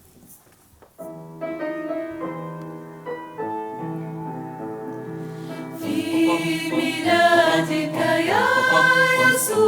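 Choir music begins about a second in with held chords, swelling louder and fuller about six seconds in.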